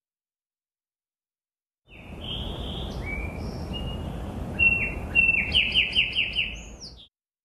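Birds calling with short whistled chirps over a steady outdoor background hiss, ending in a quick run of about five repeated notes. The sound starts abruptly about two seconds in and cuts off abruptly shortly before the end, with dead silence on either side.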